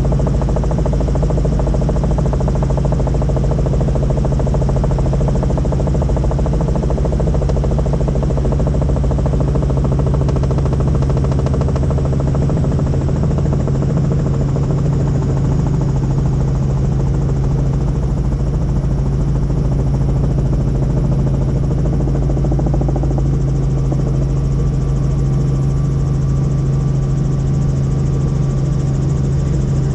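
Helicopter rotor and engine running steadily in flight: a loud, constant low drone with a strong low hum.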